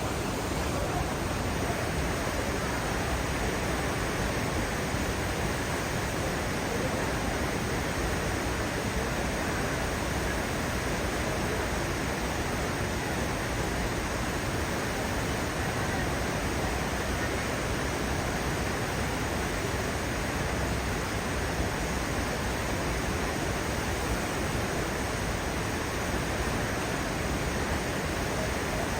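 Steady, loud rush of falling water from the Düden Waterfalls, an unbroken noise with no pauses or changes.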